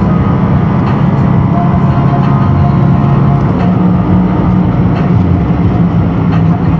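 Car engine running steadily at an even pitch, a continuous low drone with no revving.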